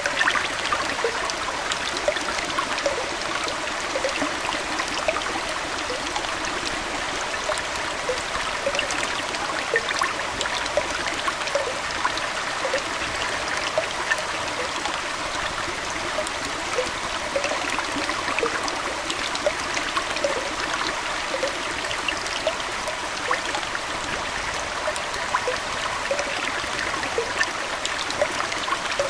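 Aquarium water trickling and splashing steadily, with many small bubbling plinks throughout.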